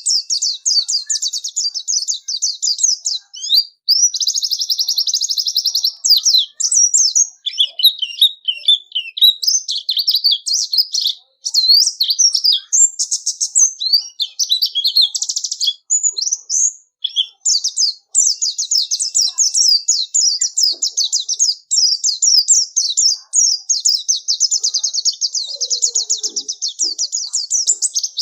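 White-eye (pleci) singing: a long, rapid, high-pitched twittering song, broken only by a few short pauses.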